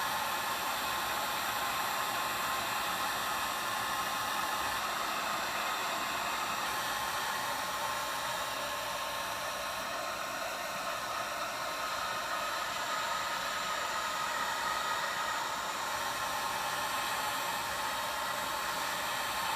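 Hot air gun blowing steadily with an even rushing whir, heating the glass to soften the adhesive under the screen.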